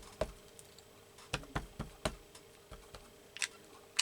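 Rubber stamp tapped on an ink pad and pressed onto paper: a series of light, sharp taps on the tabletop, coming in small clusters.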